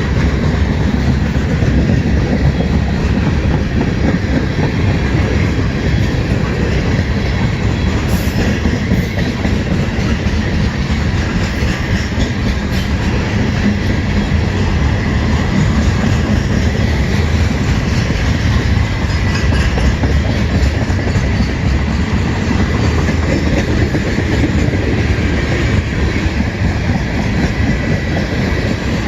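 A train rolling steadily past, its wheels clattering over the rails.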